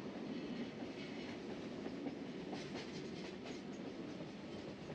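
Passenger train running on the rails, a steady rumble with a quick series of clicks about halfway through.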